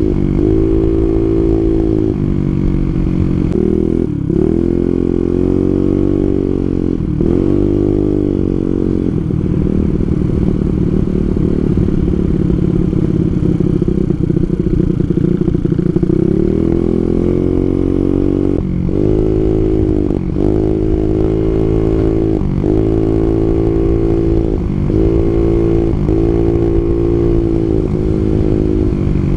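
Yamaha Mio scooter's single-cylinder four-stroke engine breathing through a cheap aftermarket racing exhaust while being ridden, its note rising and falling as the throttle is opened and closed. It holds a steady high pitch through the middle, then dips and picks up again about once a second near the end.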